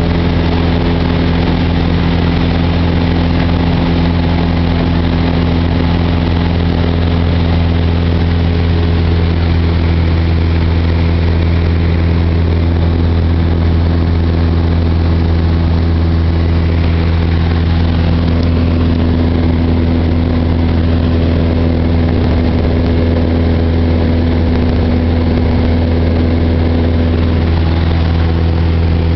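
Cessna 172's single piston engine and propeller droning steadily in flight, a deep even hum with no change in pitch.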